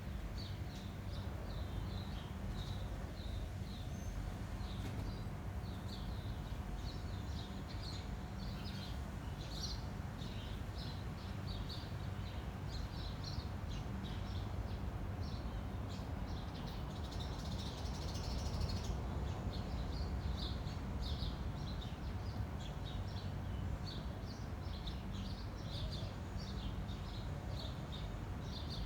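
Small birds chirping continually in short, high notes over a steady low rumble of wind. The chirping is busiest about two-thirds of the way through.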